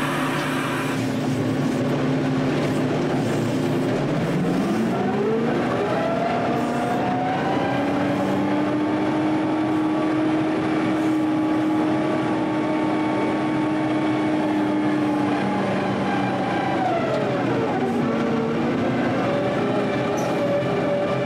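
Heavy equipment engine, likely a front-end loader's, running steadily. It revs up about a quarter of the way in, holds high revs, drops back near the end and starts to rev again.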